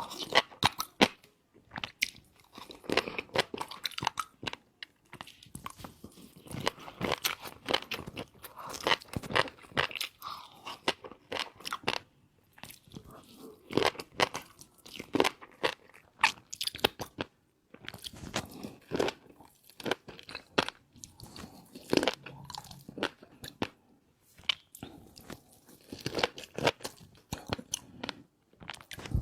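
A person chewing and biting shrimp coated in fish roe sauce close to the microphone, with dense, irregular crunches and wet clicks and a few brief pauses between mouthfuls.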